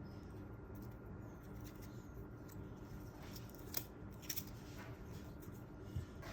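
A few light, sharp metallic clicks over a faint steady hum: small-tool handling while the oil ring's end gap is checked in the cylinder, likely feeler gauge blades.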